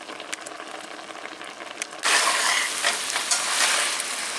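Marinated chicken sizzling as it is stir-fried in a hot oiled pan over a high flame, with scattered clicks of the spatula against the pan. The sizzle is moderate at first, then suddenly gets much louder about two seconds in.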